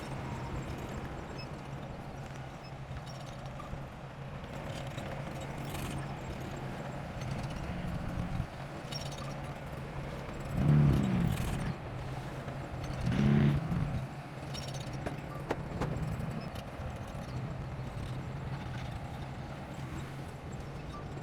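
Heavy diesel earth-moving machinery running steadily, with two brief louder surges of engine pitch about halfway through.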